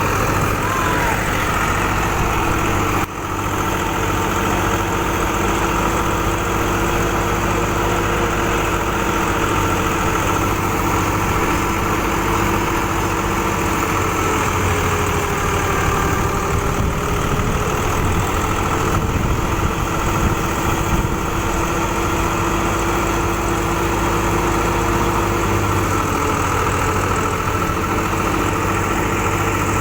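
Massey Ferguson 260 tractor engine running steadily while driving a wheat thresher, a continuous mechanical drone of engine and threshing machine. The sound drops briefly about three seconds in, and the pitch sags slightly around the middle before recovering.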